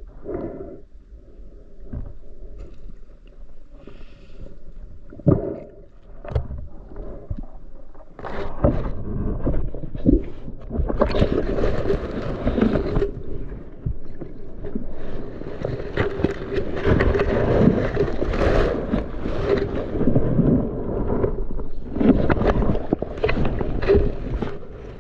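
Muffled water sloshing and bubbling around a waterproof camera during a dive, with a few knocks at first, then much louder and rougher from about eight seconds in.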